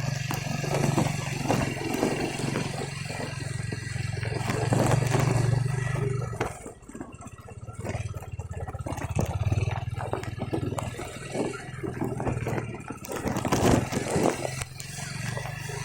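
An engine running steadily, with scraping and clattering knocks over it. The hum drops for a moment about six seconds in, then picks up again.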